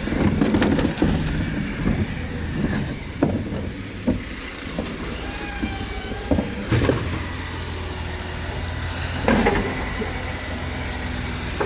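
Side-loader rubbish truck running, with its engine drone underneath a faint wavering hydraulic whine and a series of sharp knocks and bangs as the lifting arm works a wheelie bin; the loudest bang comes about nine seconds in.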